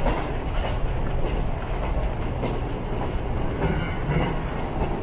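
Diesel local train running, heard from inside the carriage: a steady rumble of engine and wheels on the rails, with the wheels clicking over the rail joints.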